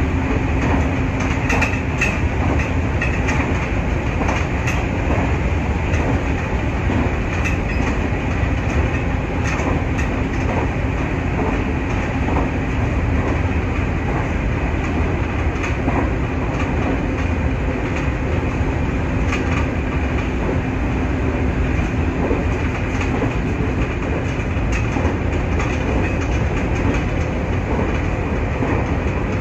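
Nankai 8300 series electric train running at speed, heard from inside the front car: a steady rumble of wheels on rail with scattered short rail-joint clicks and a faint steady hum.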